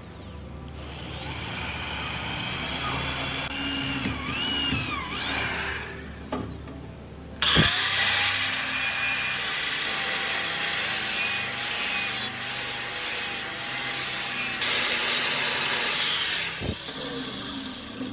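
Power tool working on a metal blade. At first its motor whines and slides up and down in pitch. About seven and a half seconds in, it breaks into a louder steady run with a strong hiss, and it stops near the end.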